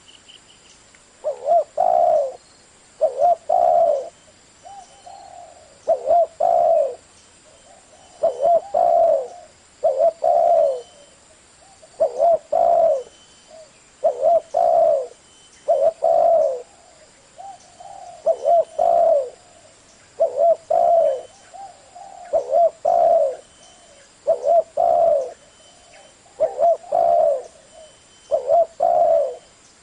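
Spotted dove cooing over and over: a loud phrase of a few low coos about every two seconds, with softer single coos in between.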